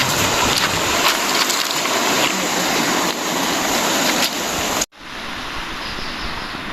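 Steady loud rush of flowing river water. It cuts off abruptly about five seconds in, and a quieter rush carries on.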